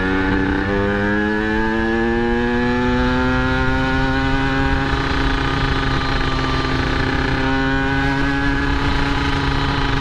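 Yamaha RX-King's 135 cc two-stroke single with an aftermarket under-belly exhaust, running under load as the bike is ridden, its pitch rising slowly and steadily as it pulls through a gear. The note shifts slightly about three-quarters of the way through.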